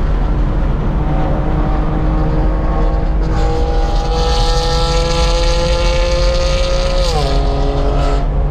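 BMW E92 M3's V8 with an aftermarket titanium exhaust pulling through a gear, its pitch climbing steadily and the exhaust turning raspier about three seconds in. About seven seconds in the pitch drops sharply with an upshift, and the engine note falls away just before the end. A steady rumble of road and wind noise runs underneath, heard from inside the cabin.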